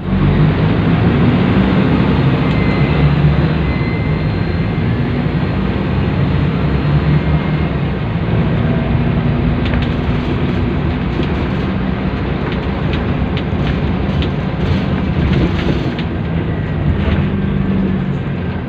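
Scania K280UB city bus running along with a steady low engine drone and road noise. A few light clicks and rattles come through in the second half.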